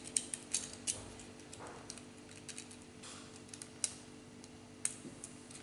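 Small plastic construction-kit parts clicking and clattering as they are handled and pressed together, in irregular light clicks.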